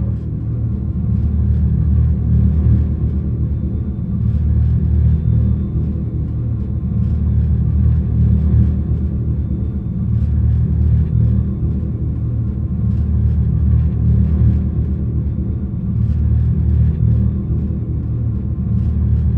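A deep, steady rumble with slow swells in level.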